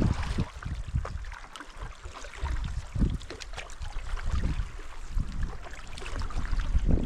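Paddle strokes splashing water beside a stand-up paddleboard, with irregular gusts of wind rumbling on the microphone.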